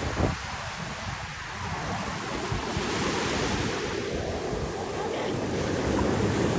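Ocean surf washing ashore, a steady rushing wash, with wind buffeting the microphone.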